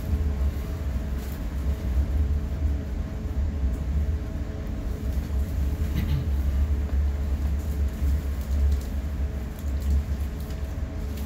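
Steady low rumble inside the upper deck of a double-deck commuter rail coach rolling along the track, with a faint steady hum over it and one sharp click about six seconds in.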